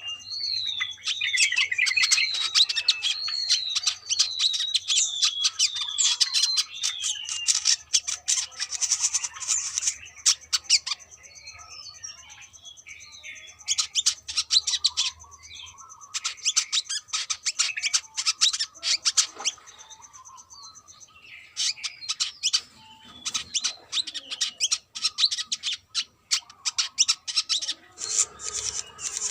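Brown-throated sunbird singing. It gives a series of wavering, falling whistled notes for the first several seconds, then breaks into bursts of rapid, sharp twittering chatter.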